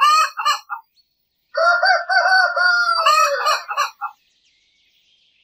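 Rooster crowing: a few short calls at the start, then one long crow of several linked parts from about a second and a half in, ending about four seconds in.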